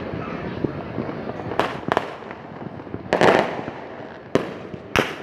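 Fireworks display: a continuous rattle of small pops under about five sharp bangs, the loudest about three seconds in.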